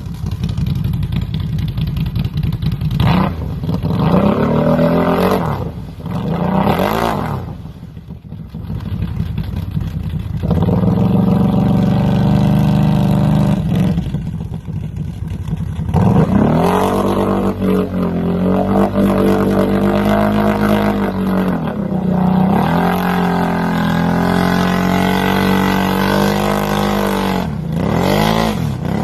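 Off-road vehicle engine revving hard and repeatedly, its pitch sweeping up and down and held at high revs for several seconds at a time, with brief drops in between.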